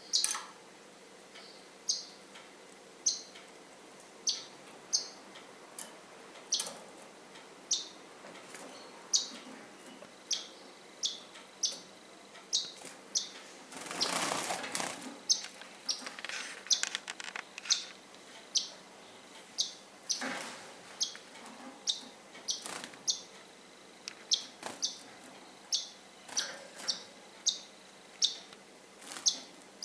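Pet birds chirping, short high calls repeated about once or twice a second, with a brief rush of wing flapping about halfway through.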